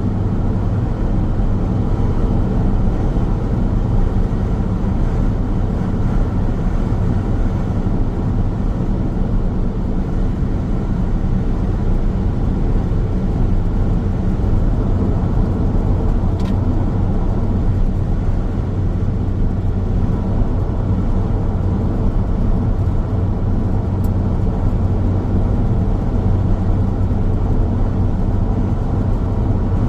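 Steady road noise of a car driving along a highway: a continuous low rumble of tyres on the pavement with engine hum, even in level throughout.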